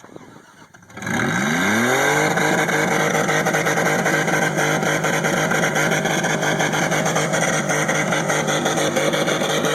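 Vehicle engine revving up about a second in, its pitch climbing, then held steady at high revs.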